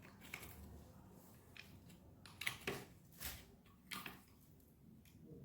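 A few faint, irregular clicks and light taps, such as small engine parts or hand tools being handled on a workbench.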